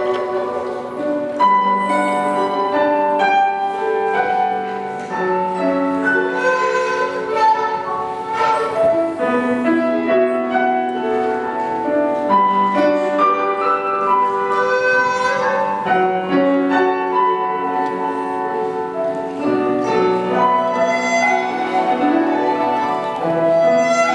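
Live instrumental music: a Chinese bamboo flute playing a melody of held notes, with accompaniment.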